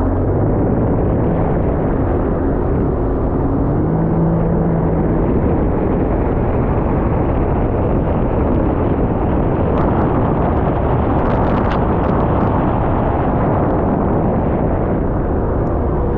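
Sea-Doo jet ski under way: its engine running steadily, buried in loud rushing wind and water noise. A few short clicks come about ten to twelve seconds in.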